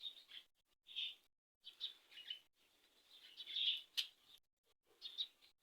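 Faint birds chirping in short, separate high calls. A single sharp click about four seconds in.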